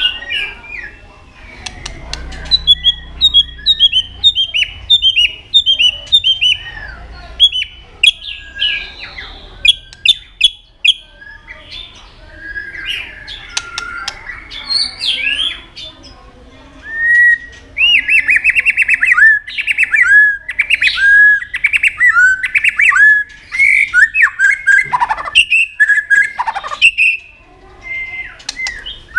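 White-rumped shama singing a varied song: runs of short, repeated down-slurred whistled notes with sharp clicks among them, loudest and fastest in the second half.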